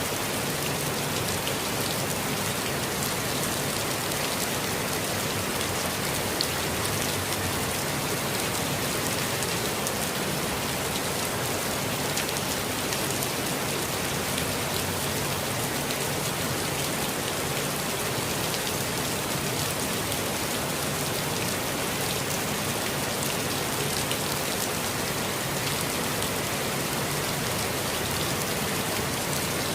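Steady rainfall, a dense even hiss of drops with fine pattering ticks on foliage and ground. One slightly louder single drop tick about six seconds in.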